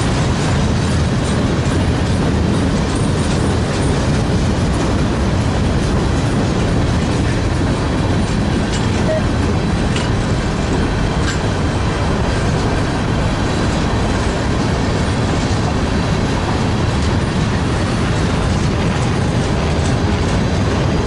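Freight train rolling past, a steady loud rumble of wheels on rail.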